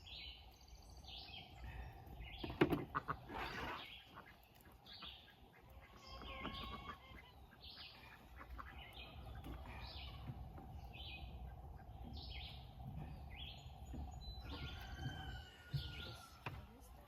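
Songbirds chirping over and over, short high notes that fall in pitch. There is a brief burst of clicking handling noise about two and a half seconds in.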